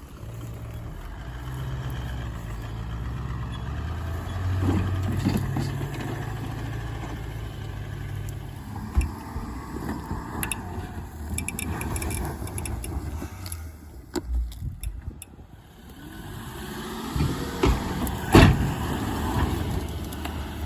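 A motor vehicle's engine running steadily for several seconds, followed by scattered knocks and rattles with a brief dip in level, and one loud thump near the end.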